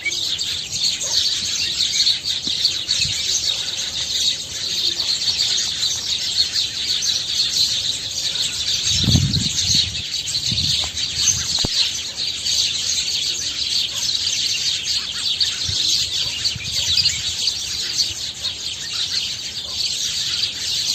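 Many small birds chirping at once, a dense, continuous chatter of short high chirps. A brief low thump comes about nine seconds in, and a single click near twelve seconds.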